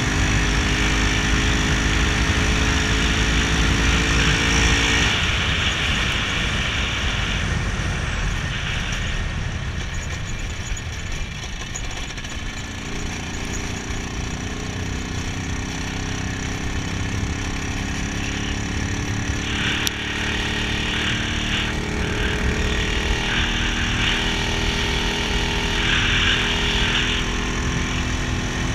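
IZh Planeta 5 motorcycle's single-cylinder two-stroke engine running under way, with wind noise. About five seconds in the throttle is closed and the engine note falls away, then it comes back and climbs slowly as the rider pulls again.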